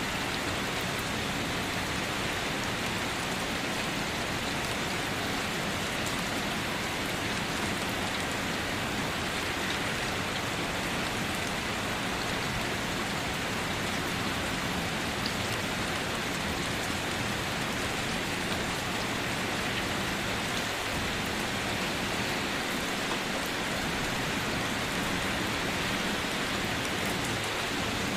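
Steady light rain falling on a surface, an even hiss of drops that holds level throughout.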